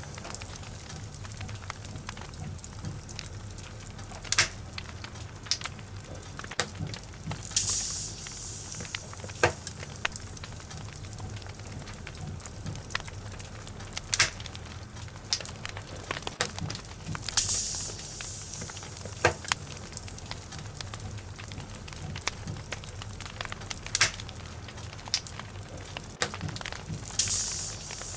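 Wood logs burning in a fireplace, crackling with irregular sharp pops over a steady low rumble of the flames, with three brief hisses.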